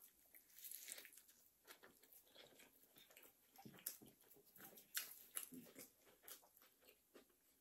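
Faint, close-miked chewing and wet mouth clicks from a bite of a St. Paul sandwich, an egg foo young patty between slices of white bread, irregular small smacks scattered throughout.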